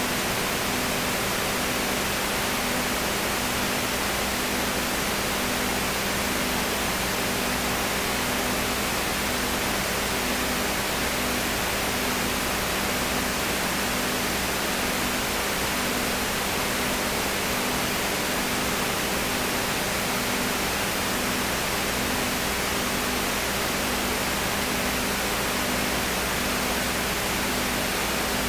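Steady hiss with a low electrical hum, one hum tone pulsing evenly a little faster than once a second.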